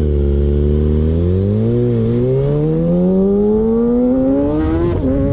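Sport motorcycle's engine accelerating, its pitch climbing steadily for several seconds, with a brief dip about two seconds in. Near the end the pitch drops briefly, then starts climbing again.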